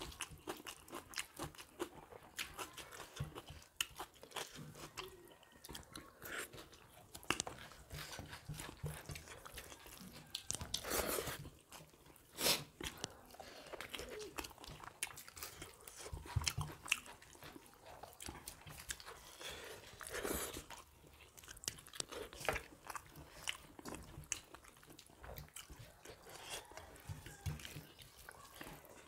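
Close-up eating sounds of two people chewing and biting soya chaap curry and rice eaten by hand: an irregular run of short chewing clicks, with a few louder bites about a third and two thirds of the way through.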